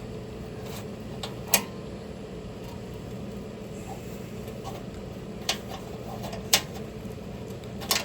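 A few sharp clicks and taps over a steady low hum, as a glove box part is handled and shaken to work a loose nail out from inside it.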